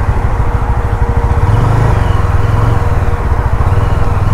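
Yezdi motorcycle's single-cylinder engine running at low speed as the bike crawls through traffic, a steady, rapid low thumping heard from the rider's seat.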